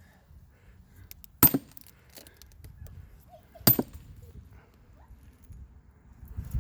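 Two sharp, ringing steel-on-steel blows about two seconds apart: a sledgehammer driving a steel splitting wedge into a log to split it.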